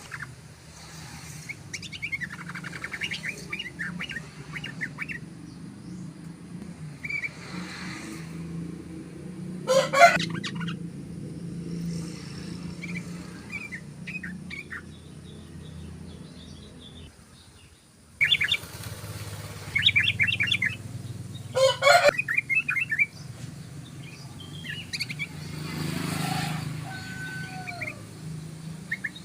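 Yellow-vented bulbul song: repeated bursts of quick, chattering trilled notes, with two loud sharp notes about ten seconds and twenty-two seconds in, over a steady low hum.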